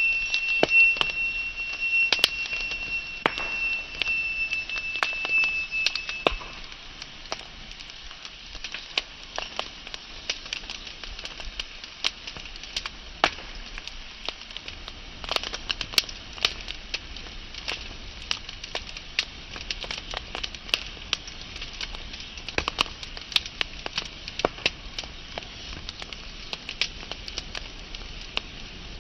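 Wood fire crackling and popping, with irregular sharp snaps over a low hiss. A high, thin whistle sounds over the first six seconds and then stops.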